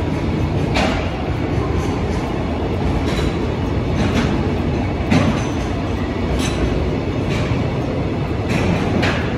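A train running past: a steady low rumble with sharp clicks about every second, unevenly spaced.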